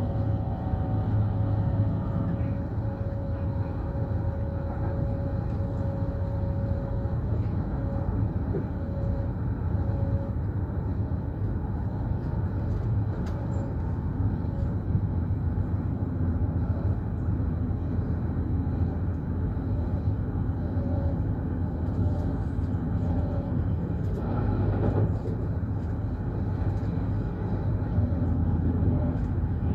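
Inside the cabin of an E5 series Shinkansen running at speed on elevated track: a steady low rumble of the train's running. A faint steady whine sounds over it for the first third or so, then fades out.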